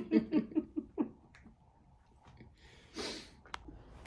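A person's laughter, quick chuckling pulses that trail off within the first second, then a short breathy exhale about three seconds in.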